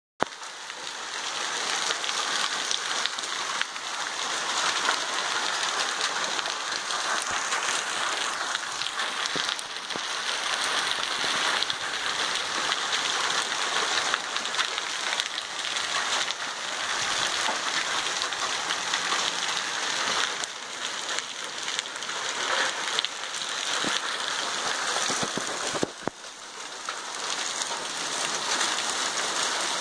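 Heavy rain pouring steadily onto standing floodwater and ground, briefly easing about 26 seconds in.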